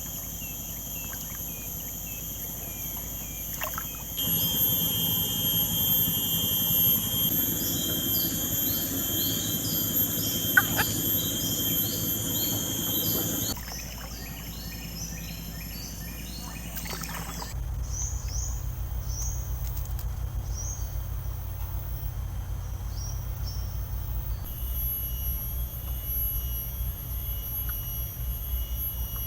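Tropical riverside forest ambience: insects droning in steady high-pitched tones, with bursts of short chirping bird calls and a low steady rumble underneath. The whole backdrop shifts abruptly a few times.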